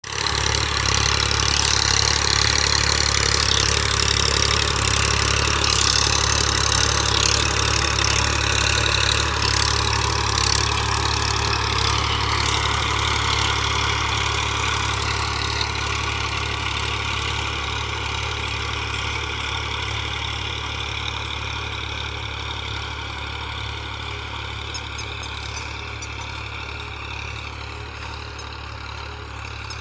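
Massey Ferguson 1035 tractor's three-cylinder diesel engine running steadily, growing gradually quieter through the second half.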